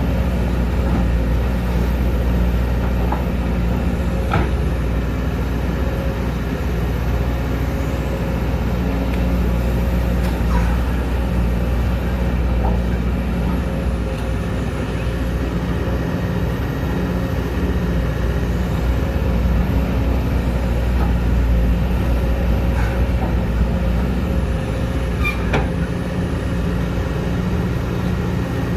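Sumitomo SH210 excavator's diesel engine running steadily under working load, with a few faint knocks at scattered moments.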